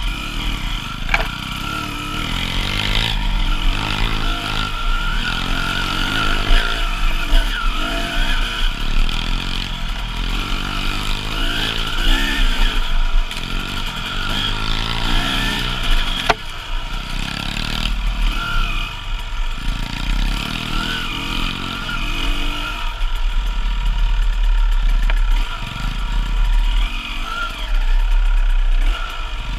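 KTM 300 two-stroke enduro motorcycle engine being ridden off-road, revving up and dropping off again and again as the throttle is worked, with wind rumble on the microphone.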